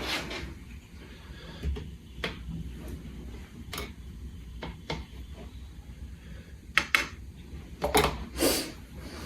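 Light scattered clicks and taps of a paint pot, water pot and stiff brush being handled while black paint is thinned with water, about eight knocks in all, with a slightly longer scrape near the end.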